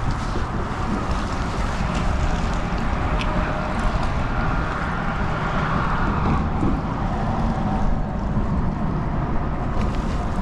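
Steady wind buffeting the microphone with a heavy low rumble, over water lapping around a fishing kayak.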